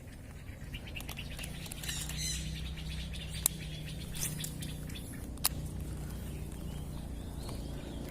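Outdoor ambience with birds chirping, a low steady whir, and two sharp clicks about two seconds apart.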